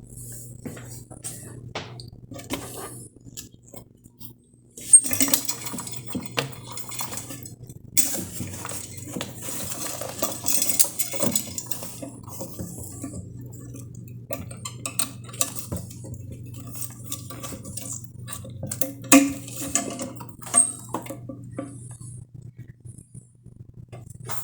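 Irregular clinks, knocks and rattles of hard objects being handled and set down, in denser flurries every few seconds, over a steady low hum.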